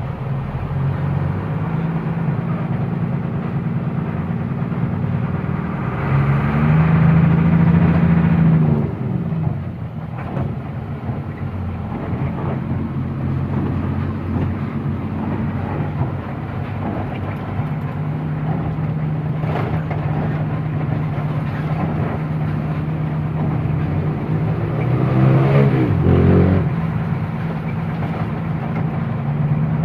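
Truck engine running under way. It is louder and rises in pitch about six seconds in, then drops back near nine seconds. It climbs again around 25 seconds and falls off sharply at a gear change.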